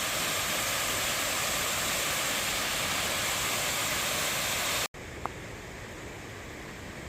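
Rushing water of a mountain valley stream, a steady loud rush that cuts off abruptly about five seconds in, leaving a much quieter hiss with one brief short beep-like tone.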